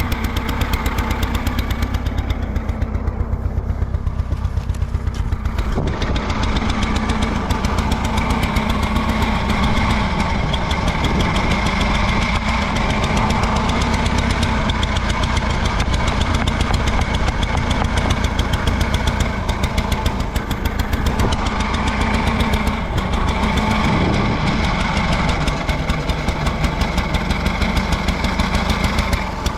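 Allis-Chalmers G tractor's small four-cylinder gasoline engine idling steadily with an even firing beat. The tractor keeps stalling, which the owner suspects is a bad spark plug wire or possibly the carburetor.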